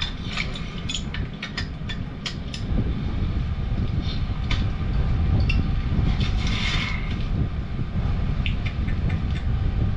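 Sharp metallic clicks and clinks of tools and parts being handled while a gas valve is swapped on a furnace, thick in the first few seconds and sparse after, over a steady low rumble; a brief scraping hiss about six and a half seconds in.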